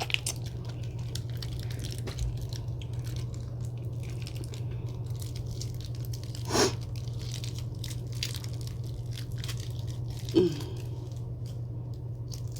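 Close-up eating sounds: peeling, sucking and chewing head-on Cajun shrimp, with small wet clicks and crunches, and two louder short wet sounds about six and ten seconds in. A steady low hum runs underneath.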